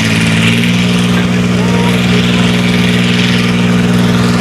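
Farm stock diesel tractor engine running steadily and loud, its pitch stepping up slightly about half a second in.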